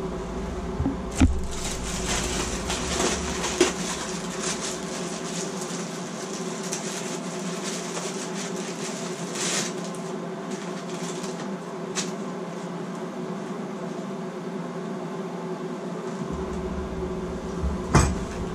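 Bathroom exhaust fan running with a steady hum, with rustling and a few sharp knocks of gear being handled.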